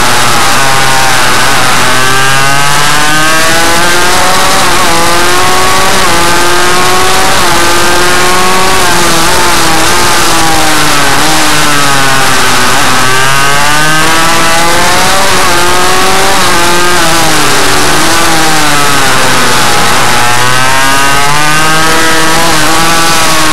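Suzuki RM85 two-stroke engine on a minimotard pit bike, running very loud, its pitch rising and falling again and again as the bike is accelerated and let off in turn.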